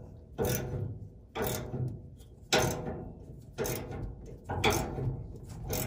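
Hand-tool work on metal furnace parts: about six sharp metallic clunks, roughly one a second, each with a short ringing tail.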